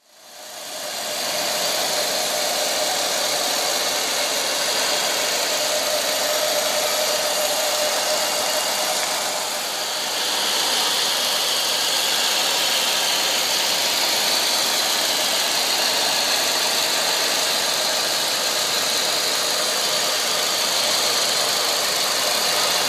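Jaguar XJ12's 5.3-litre V12 engine running steadily at idle, a hiss-heavy sound that fades in over the first second.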